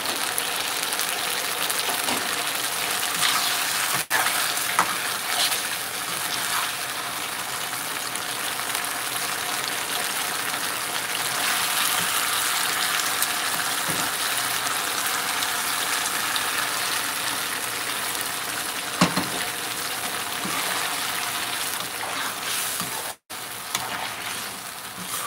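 Fish curry sizzling and bubbling steadily in a kadhai over a gas flame, with a few sharp clicks of a metal slotted spoon against the pan and stirring near the end. The sound cuts out for a moment shortly before the end.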